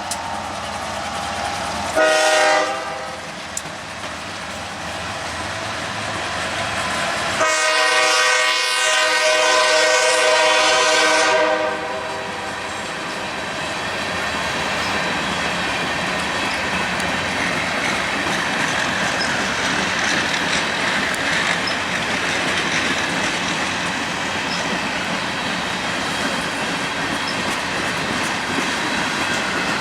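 Diesel locomotive horn on a Canadian Pacific freight train: a short blast, then a long one lasting about four seconds, followed by the steady rumble and clickety-clack of the freight cars rolling past.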